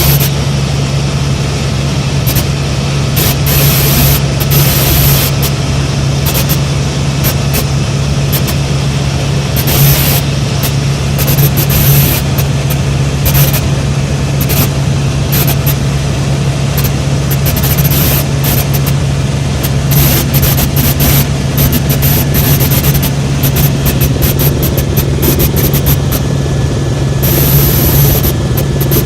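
Helicopter in flight: loud, steady engine and rotor noise with a constant low hum.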